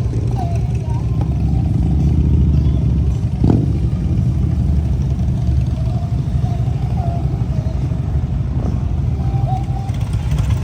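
Motor vehicle engine running, a steady low rumble with a brief click about three and a half seconds in.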